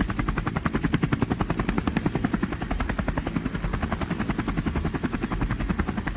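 Helicopter rotor sound effect: a steady, rapid train of evenly spaced blade beats.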